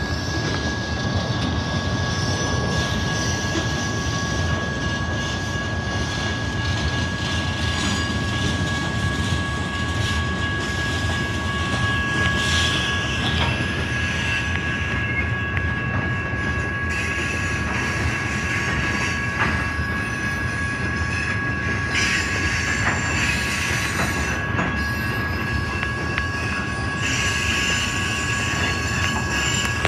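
Freight train of autorack cars and covered hoppers rolling slowly past, the cars' wheels on the rails making a steady noise. Over it a steady high-pitched wheel squeal holds throughout on two pitches.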